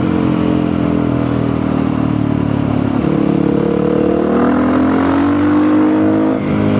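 Supermoto motorcycle engine running while the bike is ridden. Its pitch dips briefly about three seconds in, then climbs steadily and eases off near the end.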